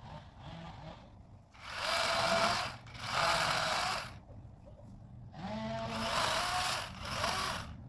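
DeWalt battery electric chainsaw run in short trigger bursts, about three or four, its motor and chain whining up in pitch at the start of each burst.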